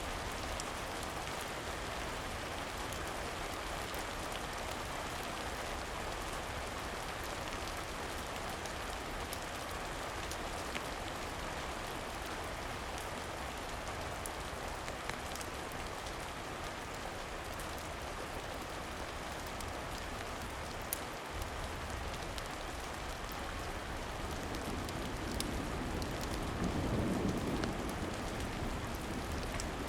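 Steady rain falling, an even hiss with scattered faint ticks, swelling louder and lower for a few seconds near the end.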